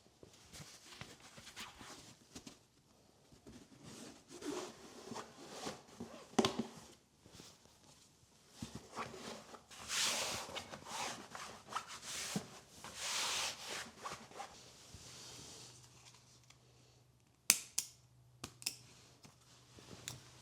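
Household items being handled: rustling and scattered clicks and knocks, with a faint steady low hum setting in about three quarters of the way through and a sharp click soon after.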